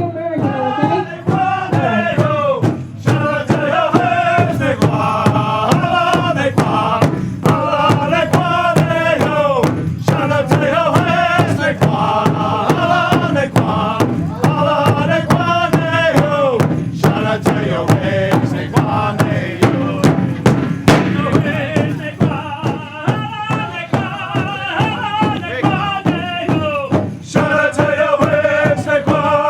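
Powwow drum group singing: men's voices chanting together in rising and falling phrases over a steady beat struck on a large drum.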